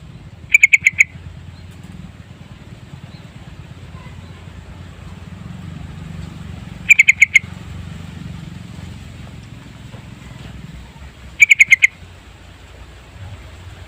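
Yellow-vented bulbul calling: three short bursts of about five rapid, loud notes each, several seconds apart, over a low steady hum.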